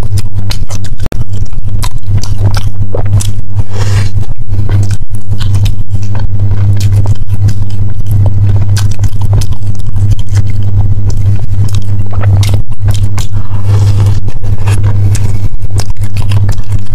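Close-miked chewing of soft baked cheesecake, with wet mouth clicks and smacks. A loud steady low hum runs underneath.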